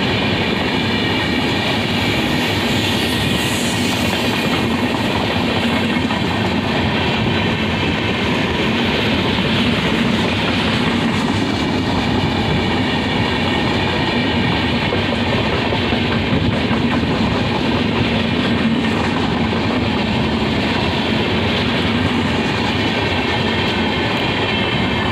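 An express train's passenger coaches rolling steadily past, their wheels rumbling and clattering over the rail joints.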